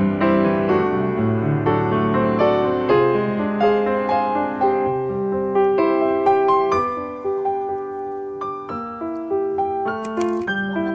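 Background piano music: a gentle melody of single notes over sustained lower chords.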